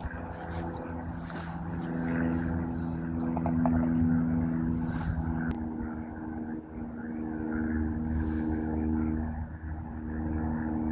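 An engine running steadily with a low rumble, its pitch stepping a couple of times, with wind gusting on the microphone.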